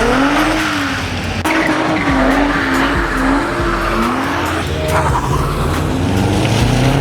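A car drifting, its tyres squealing in a pitch that wavers up and down over the running engine, with the engine note rising and getting stronger in the second half.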